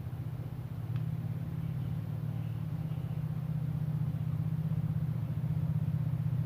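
Low, steady engine hum with a rapid even pulse, like a motor idling, with a single sharp tap about a second in.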